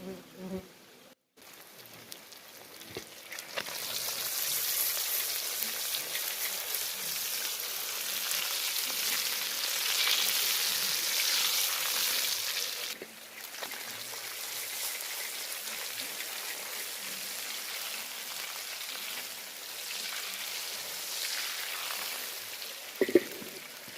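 Food frying in a pan, a dense sizzling hiss that starts a few seconds in, is louder for the first several seconds and then settles lower. A sharp knock near the end.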